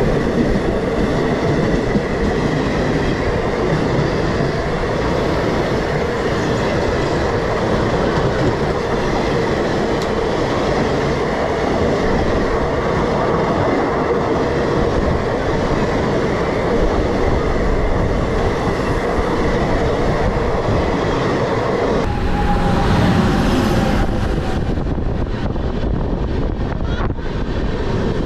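Passenger train coaches running on the rails, with a steady rumble and rattle and a faint steady hum, beside another train on the adjacent track. The sound changes abruptly about 22 seconds in.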